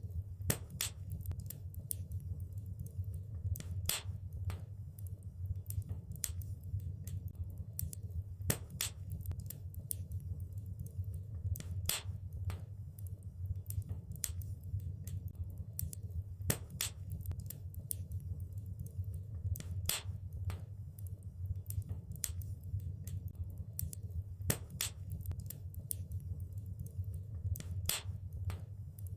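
Wood fire burning in a fireplace: a steady low rumble of flame with irregular sharp crackles and pops from the burning wood.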